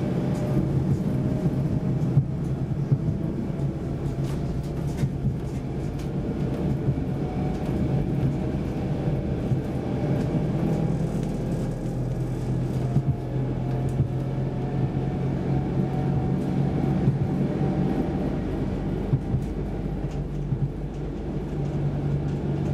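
Saltsjöbanan C10/C11 electric train running, heard from inside the carriage: a steady low rumble with a faint whine and scattered clicks.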